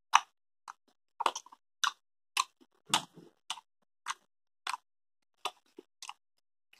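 Close-up mouth sounds of someone chewing a bite of grill sausage: short wet smacks and clicks, about two a second at uneven spacing.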